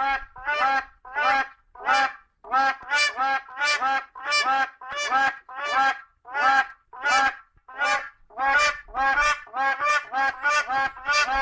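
Common crane calling: a long series of loud, rolling trumpeting calls, one after another about every half to three-quarters of a second, some coming in close pairs.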